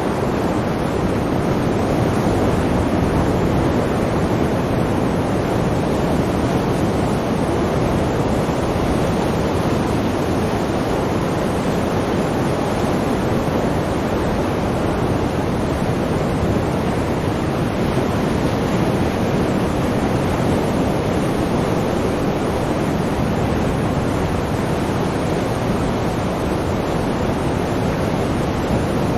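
Sea waves washing on the shore, a steady unbroken rushing noise.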